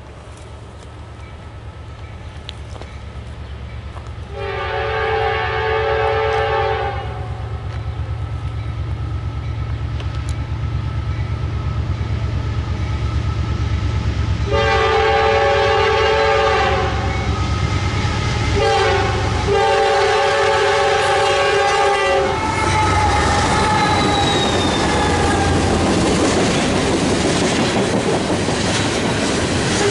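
Approaching freight train's diesel locomotive sounding a multi-chime air horn for a grade crossing: long, long, short, long, over a growing low engine rumble. After the last blast the locomotives pass close by and loaded tank cars roll past with clickety-clack over the rail joints.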